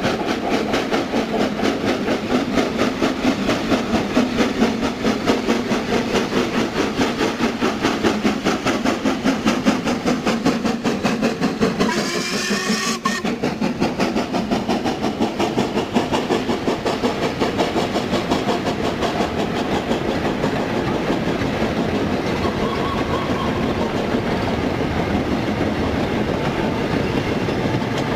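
Steam locomotive and train running on the line, with a steady rhythmic beat throughout. A short rising whistle sounds about twelve seconds in.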